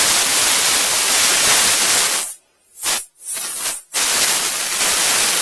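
Loud hiss of compressed air blowing, in bursts: one long burst of about two and a half seconds, two short ones, and another long one near the end.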